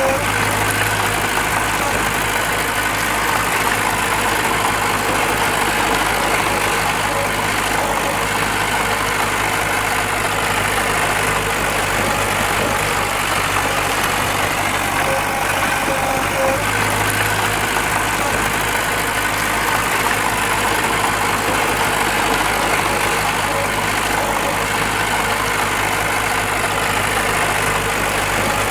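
Diesel engine of heavy earthmoving machinery, a bulldozer or dump truck, running steadily. The low hum swells briefly about a second in and again around seventeen seconds.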